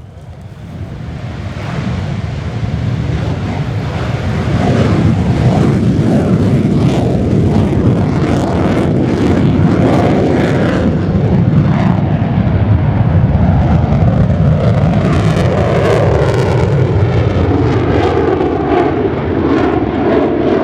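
Mitsubishi F-2B fighter jet flying by, its single turbofan engine's noise building over the first few seconds and then holding loud with a crackling edge.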